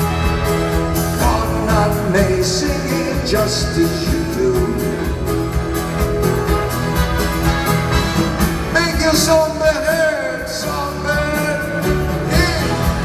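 Live band music: a passage between sung lines with a steady low accompaniment and a melody line that bends in pitch.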